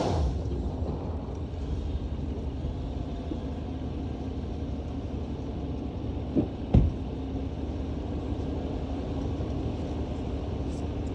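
2009 Jeep Commander's 5.7 Hemi V8 coming off a rev at the start, then a steady low rumble of the SUV under way. Two thumps about six and a half seconds in.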